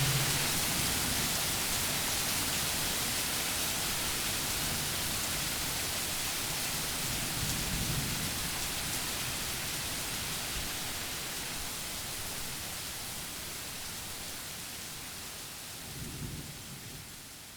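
Steady rain hiss, slowly fading out, with two soft low rumbles of distant thunder, one near the middle and one near the end.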